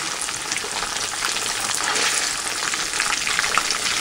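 Floured cube steak frying in hot oil in a cast-iron skillet: a steady sizzle, with light ticks and clicks as metal tongs lift the pieces.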